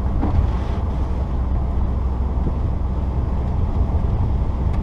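Inside the cabin of a moving 1994 Saturn SL2: its twin-cam four-cylinder engine's drone mixed with road and tyre noise, a steady low rumble.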